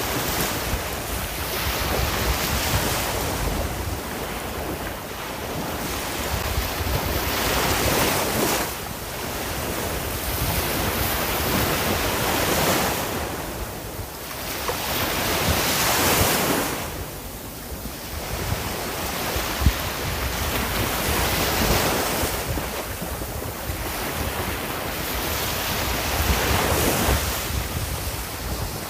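Sea waves breaking and washing on the shore, the surf swelling and falling back about every four to five seconds, over a low rumble of wind.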